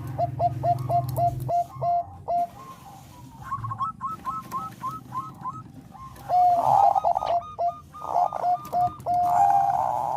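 Zebra dove cooing in rapid runs of short staccato notes, about four a second. A higher-pitched run comes in the middle, and a louder stretch with a longer held note comes near the end.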